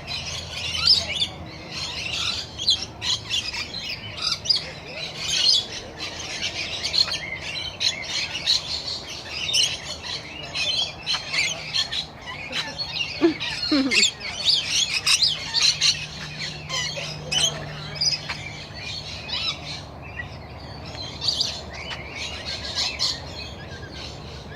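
A flock of rainbow lorikeets calling all at once: a dense, unbroken stream of many overlapping high-pitched chirps and screeches.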